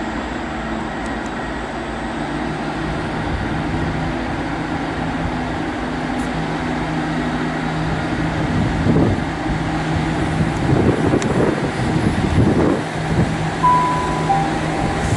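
Class 150 Sprinter diesel multiple unit pulling out of the station, its underfloor diesel engines running under power with a steady drone that grows louder, with rumbling surges as it gets under way. A short two-note tone sounds near the end.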